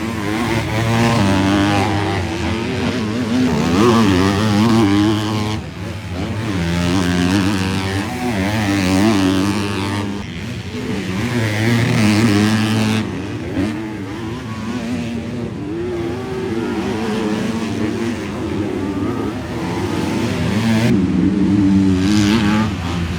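Several 250-class motocross bikes racing on track, their engines revving up and dropping off over and over as they pass, with the sound of one bike overlapping the next.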